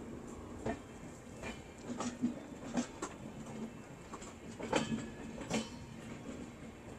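Passenger train running, a steady rumble broken by irregular clanks and knocks from the wheels and coach, the loudest a little before the five-second mark.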